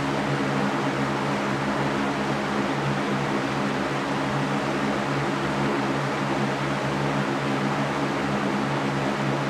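Electric fan running steadily: an even rush of moving air with a low, constant motor hum underneath.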